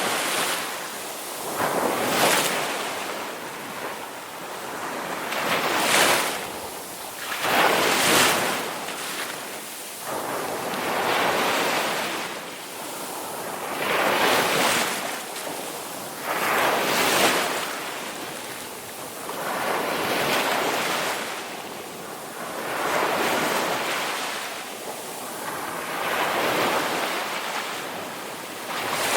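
Ocean surf: waves breaking and washing in one after another, swelling and fading every two to three seconds.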